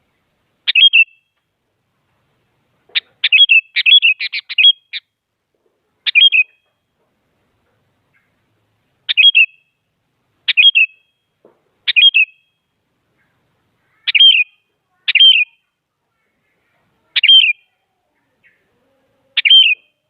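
Sooty-headed bulbul giving short chirping calls one at a time, a second or more apart, with a quick run of several calls about three seconds in.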